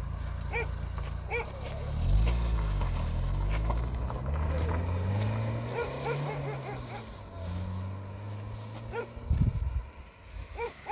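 Car engines pulling away on a dirt road: a low idle, then louder running whose pitch climbs and falls through the gears as the cars drive off and fade. A few short animal calls come near the start and the end, and there is a low thump near the end.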